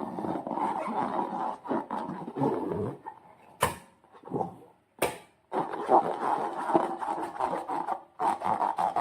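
Slime being squeezed and worked by hand in irregular spells, with two sharp clicks about three and a half and five seconds in.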